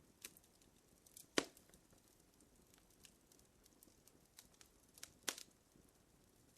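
Fire crackling: faint, irregular sharp pops over a low hiss, the loudest about a second and a half in and again a little after five seconds.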